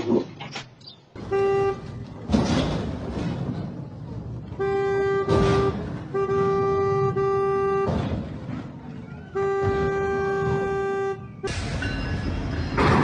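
A single-tone vehicle horn honking four times: a short toot, then three long blasts of one to two seconds each, over a noisy background.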